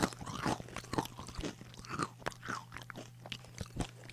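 Close-up sound of a person chewing crisp chips: irregular sharp crunches, several a second, over a faint steady low hum.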